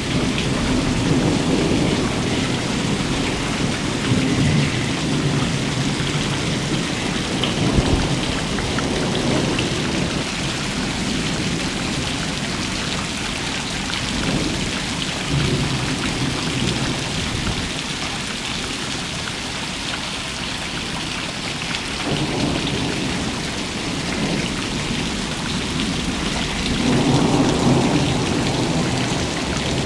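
Heavy rain falling with a steady hiss, with low rumbles swelling and fading several times underneath.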